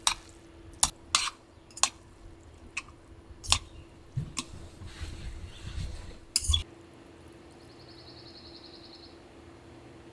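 Camp dishes and utensils being handled: a run of sharp clicks, clinks and knocks over the first seven seconds, over a steady low hum.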